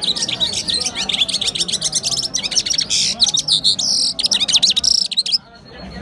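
Many small caged birds chirping in a dense, rapid, overlapping twitter, which drops away briefly near the end.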